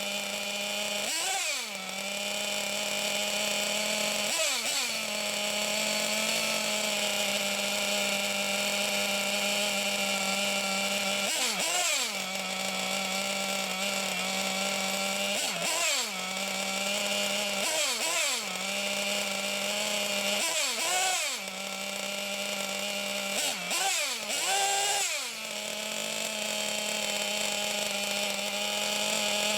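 SH-1/8 miniature gasoline engine running during break-in, with a steady high-pitched buzz. Its speed drops briefly and climbs back several times.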